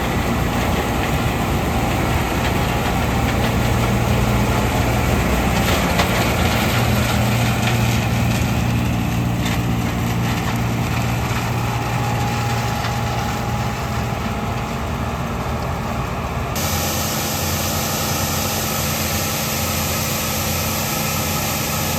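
John Deere 6600 combine running: steady engine and machinery noise with a strong low hum. About sixteen seconds in the sound changes abruptly, the low rumble dropping away and a higher hiss coming up.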